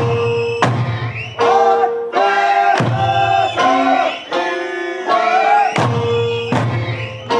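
Eisa music: an Okinawan folk song sung in long, wavering held notes over sharp, regularly spaced taiko drum strikes.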